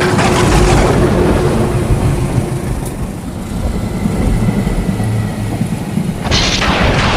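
Thunder rumbling over heavy rain, with a sharp thunderclap about six seconds in.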